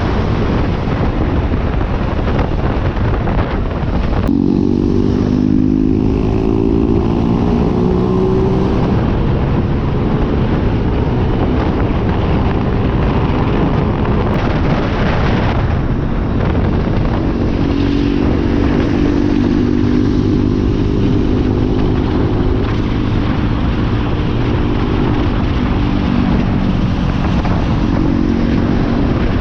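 Motorcycle engine running at a steady cruising pace under heavy wind rush on the camera microphone, the engine note standing out more clearly a few seconds in and again through the latter half.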